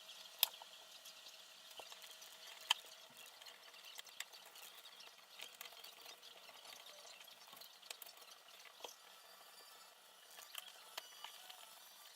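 Scattered light clicks and taps from small parts and tools being handled during assembly, over a faint steady hiss; two sharper clicks stand out, about half a second in and near the 3-second mark.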